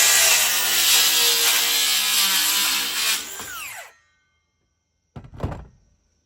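Circular saw cutting through a maple board, the motor running steadily under load, then released and winding down with a falling whine about three seconds in. A knock follows about five seconds in.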